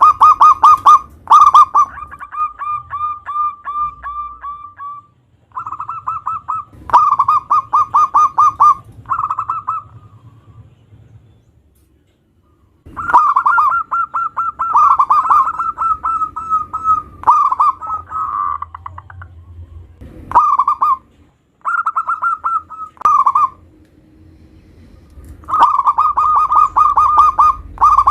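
Zebra dove (perkutut) cooing: loud runs of short, rapidly repeated coos, grouped in phrases of a few seconds with brief pauses between them.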